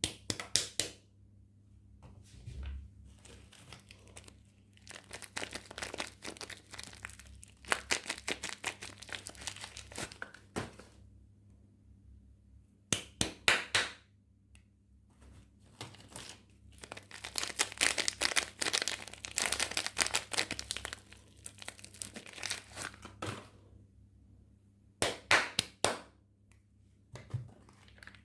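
Soap packaging crinkling and tearing as soaps are unwrapped by hand, in crackly bursts of a second or a few seconds with short pauses between them.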